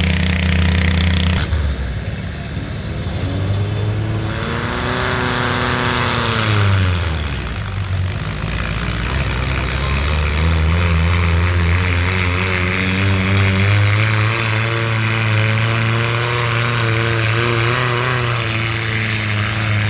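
Garden pulling tractor's engine running hard under load as it pulls the sled. Its pitch bends down and back up about halfway through, holds high and steady, then falls away near the end as the pull finishes.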